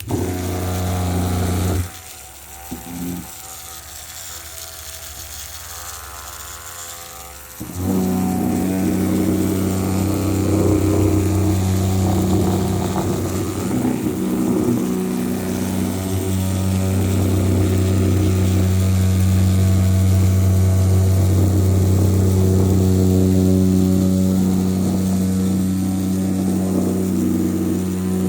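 Small electric motor running with a steady, buzzing hum. It drops away about two seconds in and comes back louder about eight seconds in, then runs on steadily.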